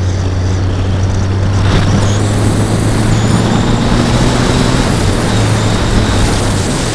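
Kawasaki ZZR 1400 inline-four engine running at a steady, even pitch while riding, under heavy wind noise on the bike-mounted camera's microphone.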